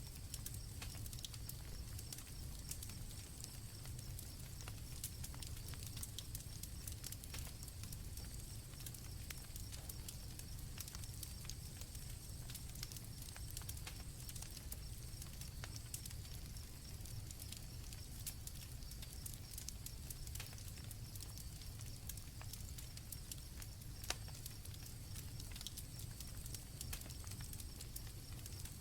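Campfire crackling with scattered pops and one louder pop about 24 seconds in, over a steady high chirring of crickets and a low rumble.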